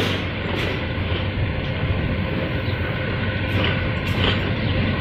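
Pakistan Railways passenger train running along the track, heard from beside a moving coach: a steady rumble of wheels on rails, with a few sharp clicks.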